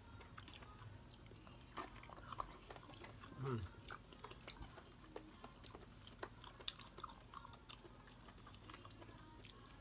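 Faint chewing and mouth sounds of eating steamed king oyster mushrooms, scattered small clicks throughout, with a brief hum of voice about three and a half seconds in.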